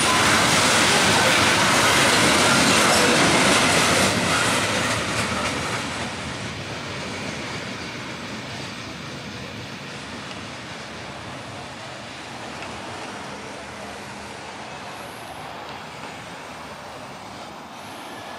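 Loaded coal hopper cars rolling by on steel wheels, the rumble and rattle of the train's tail end. It is loud for about four seconds, then falls off quickly as the last cars clear and the train goes away, leaving a low, steady rumble.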